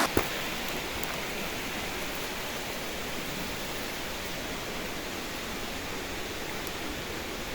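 Steady rushing of a nearby river, an even hiss of flowing water, with a single sharp click just after the start.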